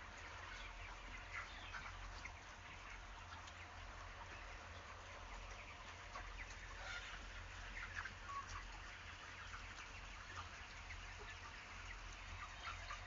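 Flock of 31-day-old broiler chickens: many faint, overlapping short clucks and chirps, scattered throughout over a low steady hum.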